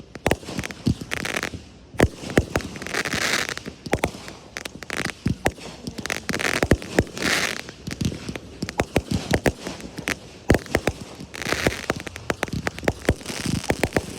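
Fireworks display: rapid, irregular sharp bangs of bursting shells, mixed with repeated short bursts of crackling.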